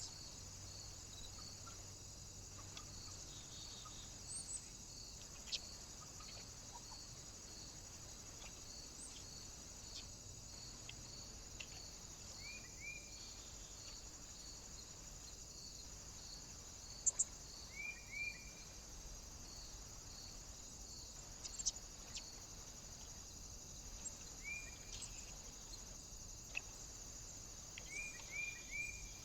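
Faint short bird chirps, coming in twos and threes every few seconds, over a steady high hiss and a soft high pulse repeating about twice a second.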